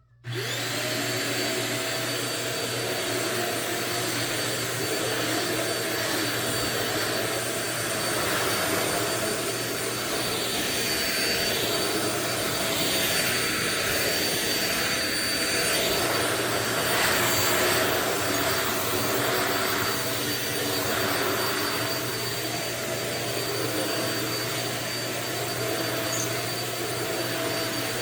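Euro Pro EP601 900-watt stick vacuum switched on, its motor spinning up within a moment and then running steadily with a high whine over rushing air. Between about ten and twenty seconds in, the rushing sound wavers up and down in pitch.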